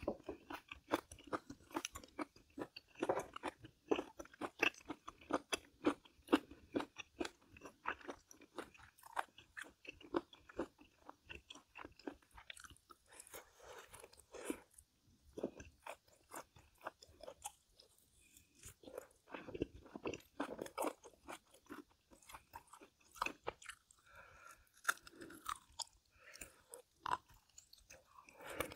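A person chewing and crunching food in a long run of quick crunchy bites, easing off briefly about two-thirds of the way through.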